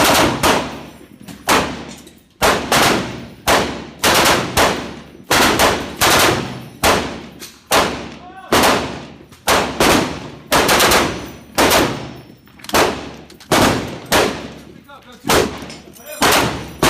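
Machine-gun fire on a range: repeated loud reports and short bursts, an irregular one to two a second, each trailing off in an echoing tail.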